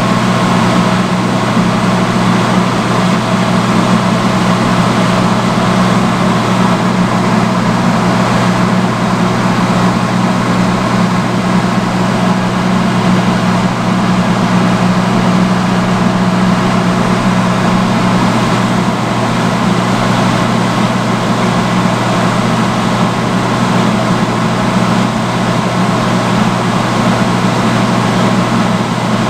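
Vintage salon chair hood hair dryer running on its highest setting: the blower fan's steady rush of air with a low, even motor hum.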